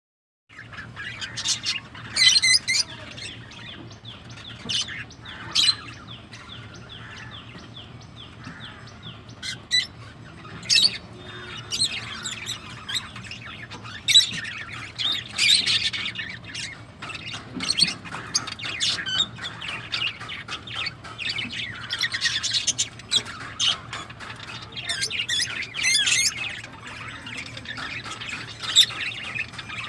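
Small pet parrots chirping and squawking in short, sharp calls at an irregular pace, over a steady low hum.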